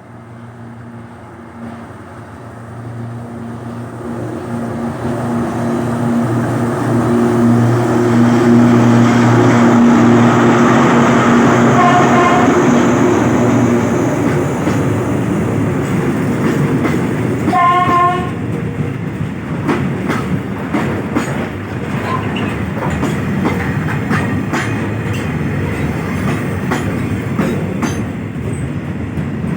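Alsthom ALS diesel locomotive 4101, re-engined with an MTU diesel, approaching and passing with a steady engine drone that grows loud. It gives two short horn blasts, the second louder, about 12 and 18 seconds in. Freight wagons then roll past, wheels clacking rhythmically over the rail joints.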